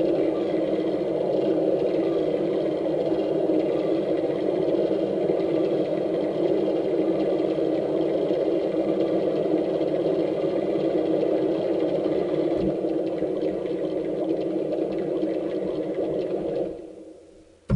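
Mark VII AquaJet GT 700 touchless car wash machine running: a steady motor whir with spray or air noise that fades away near the end.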